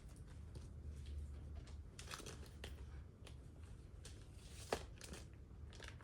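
Faint rustling of comic books being handled and set out, with scattered light taps and one sharper tap about four and a half seconds in.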